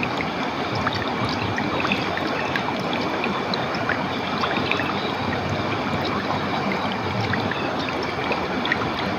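Running water rushing steadily, as from a clear stream or small waterfall, with brief high drips and splashes scattered through it.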